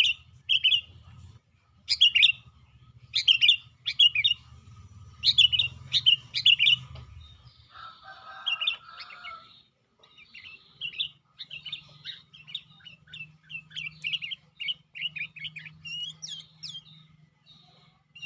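Sooty-headed bulbul (kutilang) singing vigorously in a cage: short, bright phrases of a few notes each, repeated with brief pauses, then a faster, almost continuous run of notes in the second half.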